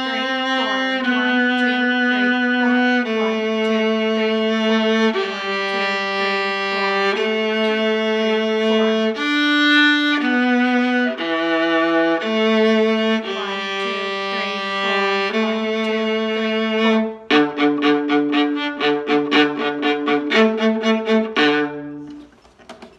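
Bowed string music: a line of held notes, each lasting a second or two. About two-thirds of the way through it turns to quicker, short repeated notes over a lower second part, then stops shortly before the end.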